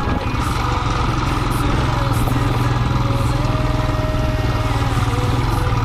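Single-cylinder Royal Enfield motorcycle engine running steadily, heard from on the bike.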